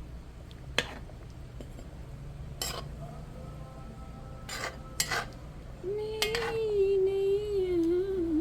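A metal spoon clinks sharply against a metal karahi about five times. About six seconds in, a voice hums one long wavering note, louder than the clinks, for about three seconds.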